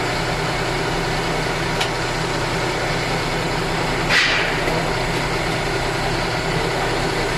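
An engine idling steadily, with a brief hiss about four seconds in.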